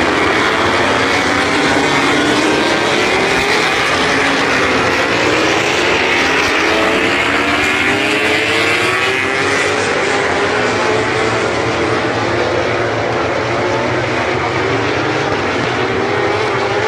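MotoGP racing motorcycle engines at high revs, several at once, their pitch climbing over and over as the bikes accelerate up through the gears.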